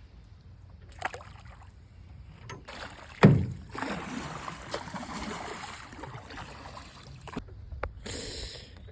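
Sounds of handling in a canoe: a sharp knock on the hull about three seconds in, the loudest moment, followed by a few seconds of rustling noise that stops abruptly, then a shorter burst of it near the end.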